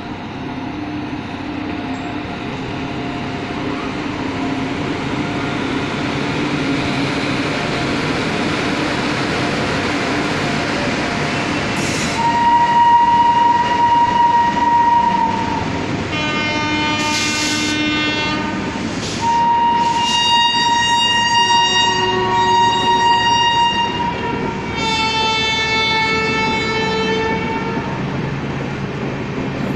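A passenger train of LHB coaches rolling past behind an electric locomotive, a rumble that grows louder over the first twelve seconds or so. From about twelve seconds in, long high-pitched wheel squeals set in, each held for a few seconds and changing pitch from one to the next, with short hissing screeches between them.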